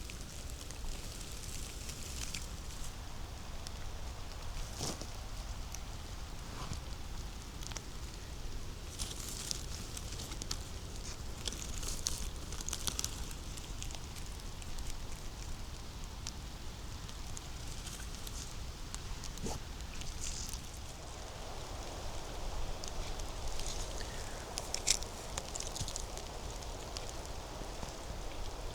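Footsteps crunching through leaf litter and twigs on a forest floor: scattered dry crackles and rustles, with one sharper snap near the end.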